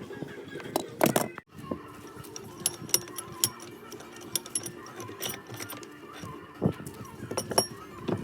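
Background music with sharp metallic clinks and knocks from work on an old cast-iron bench vice, with a brief dropout about one and a half seconds in.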